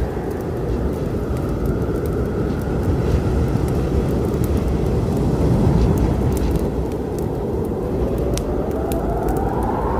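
A steady, low storm rumble of wind and rain, with sharp crackles and pops from a wood fire scattered over it. A faint whistling tone rises in pitch near the end.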